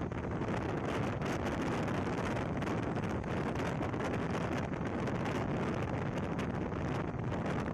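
Steady rushing noise of an express passenger train running, heard from on board, with wind buffeting the microphone and many small clicks and rattles through it.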